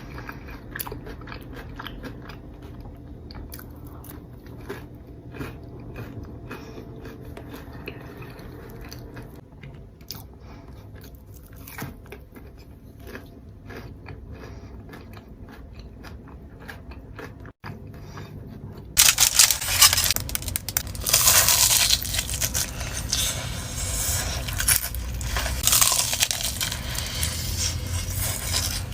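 Close-miked biting and chewing of crunchy fried corn dogs: sharp crunches and crackles of the batter with wet chewing. The crunching grows much louder and brighter about two-thirds of the way in.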